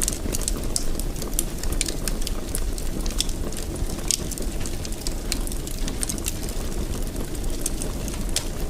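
Wood fire burning in a fireplace: a steady low rumble of the flames with frequent sharp crackles and pops scattered through.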